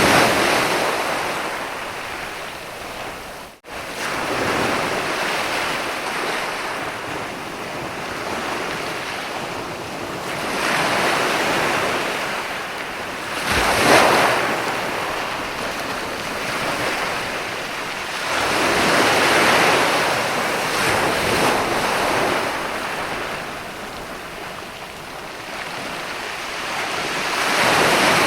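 Sea waves breaking on a sandy beach: the surf swells and washes back in long surges every several seconds, briefly cutting out for an instant about three and a half seconds in.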